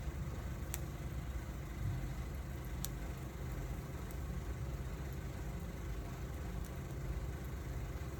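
Wood fire burning with a steady low rumble, and a few sharp crackles spaced out over several seconds.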